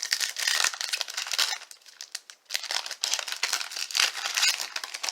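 Baseball card pack wrapper crinkling and tearing as a pack is opened, in two long spells of handling.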